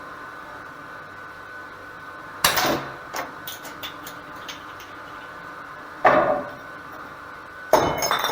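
Three sharp knocks with short ringing tails, about two and a half seconds in, about six seconds in and near the end, with a few faint clicks between, over a steady background hum.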